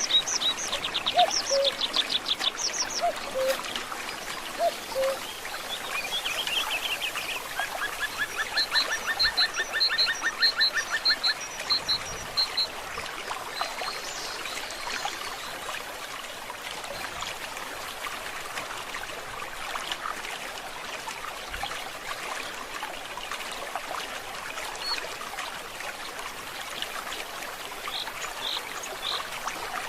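A forest stream trickling steadily, with several birds calling in trills and short repeated notes through the first half.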